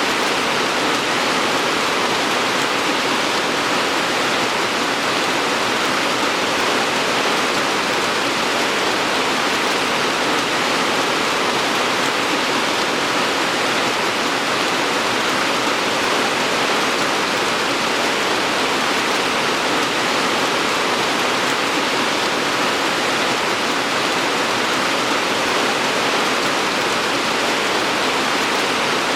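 Steady rain falling: a constant, even hiss with no separate drops or changes.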